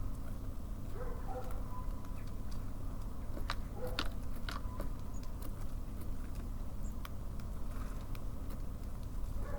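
Small birds pecking seed at a feeder: scattered sharp taps and cracks at an irregular pace, with a few short faint calls, over a steady low rumble of city background.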